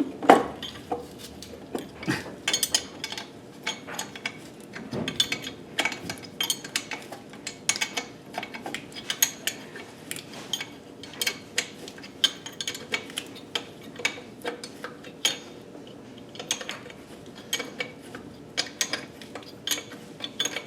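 Hand tools and metal engine parts clinking and clicking as the exhaust manifold and its fasteners are worked on: irregular sharp metallic clicks, several a second.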